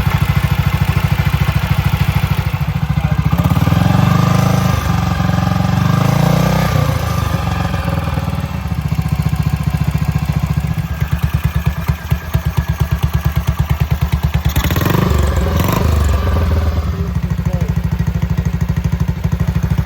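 BSA Gold Star DB34's 500 cc single-cylinder engine running at a steady, even beat, with the throttle opened a little a few seconds in and again near the end.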